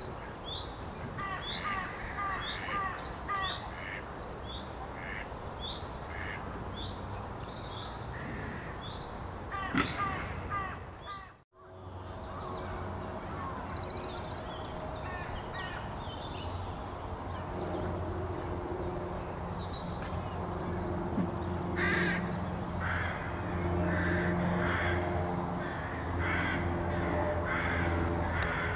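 Birds calling: many short, rapidly repeated calls at first, then, after a brief drop-out, harsh caw-like calls over a steady low hum.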